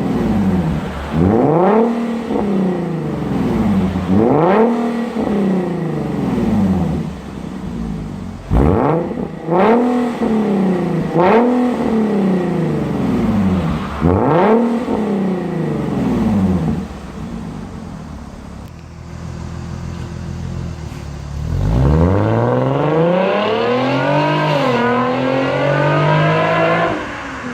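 Nissan 370Z's 3.7-litre V6 through an aftermarket Armytrix valved exhaust, revved in a series of sharp throttle blips, each falling back to idle. After a short steady idle it pulls up in one long rising rev with a brief dip, then drops off near the end.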